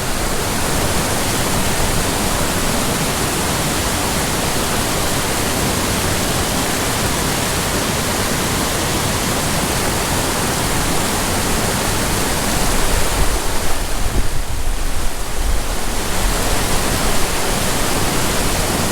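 Loud, steady rush of white water from a small mountain creek's waterfall, cascades and riffles. About two-thirds of the way through, an uneven low rumble swells for a few seconds.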